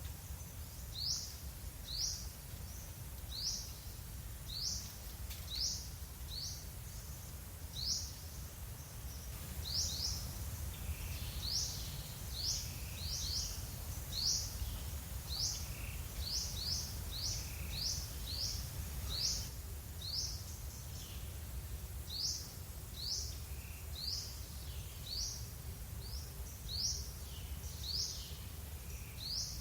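A bird chirping over and over: short, high, sweeping notes, mostly about one a second and coming faster in the middle stretch, over a steady low rumble.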